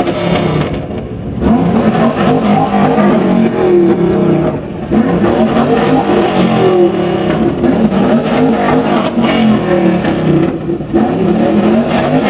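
Car engines revving loudly, their pitch rising and falling again and again, with brief lulls about a second in and near five seconds.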